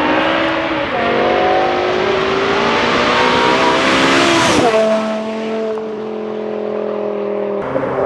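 A performance car accelerating hard past. The engine note climbs steadily, dropping back at upshifts about a second in and near five seconds, and is loudest as the car goes by around four seconds. It then holds a steady note as the car moves off.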